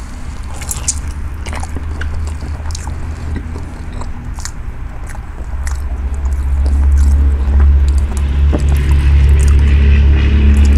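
Chewing and biting on battered fried cod with tartar sauce, with small crisp crunching clicks throughout. A low steady rumble builds up from about halfway and becomes the loudest sound.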